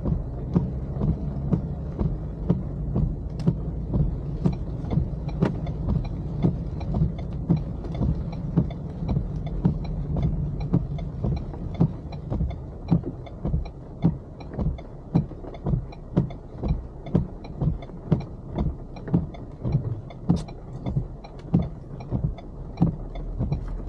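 Car turn-signal relay ticking steadily, about one and a half ticks a second, with the indicator on for an upcoming right turn, over the low hum of the car's engine and tyres inside the cabin.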